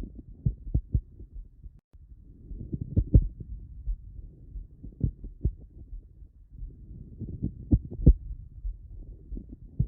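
Chest heard through a stethoscope: loud single and double clicks in time with breathing over a low breath rumble, the abnormal respiratory clicking of this patient's right chest. The clicks come in clusters every two to three seconds.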